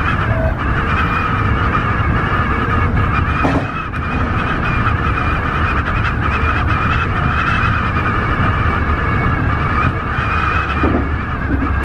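Tobu 50090-series electric train running: a steady rumble with several high tones held over it.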